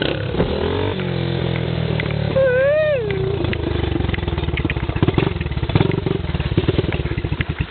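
Small single-cylinder four-stroke dirt bike engine running close by, steady at first, then going over to an uneven, pulsing putter about three seconds in. A short wavering call from a person's voice rises and falls over it about two and a half seconds in.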